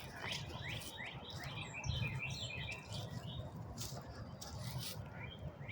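Songbird singing: a quick run of short, falling chirps that thins to a few scattered notes about three seconds in, over a faint low outdoor rumble.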